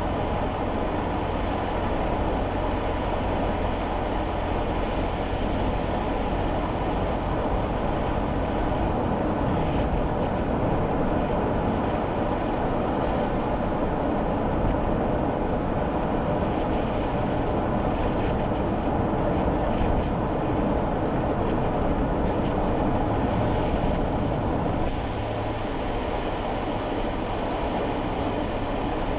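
Cabin noise inside a kei car on a wet road: steady tyre and road noise over a low engine hum, easing a little about 25 seconds in.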